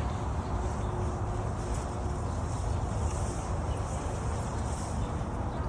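Steady outdoor background noise with a low rumble, with no distinct event standing out.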